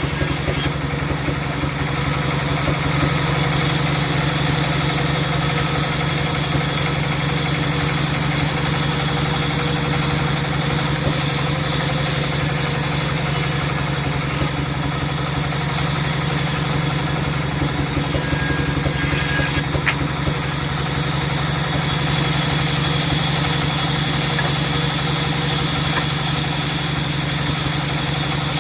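Sawmill machinery running steadily, with a constant low hum and a hiss over it.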